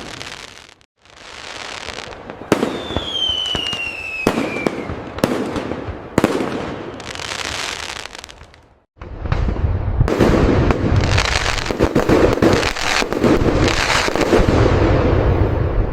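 Aerial fireworks bursting. Several separate sharp bangs come first, with a descending whistle a few seconds in. From about nine seconds a dense, continuous barrage of booms and crackling takes over.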